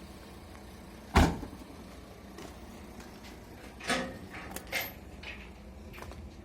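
One loud bang about a second in, followed a few seconds later by several lighter knocks and clicks, over a low steady hum.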